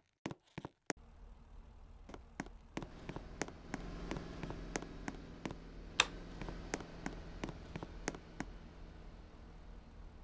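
Low steady rumble at a railway level crossing, with sharp clicks about three a second over it and one louder click about six seconds in.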